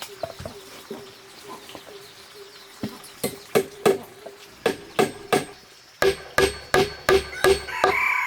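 Repeated sharp knocking blows, like a hammer or blade striking, few at first and settling about halfway into a regular beat of about three a second.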